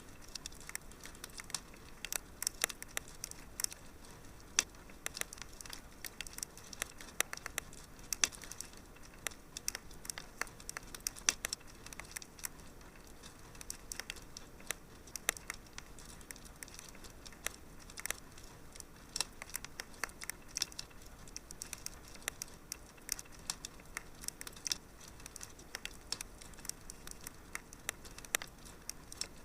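Wood fire in a fireplace crackling: a soft steady hiss with many quick, irregular pops and snaps.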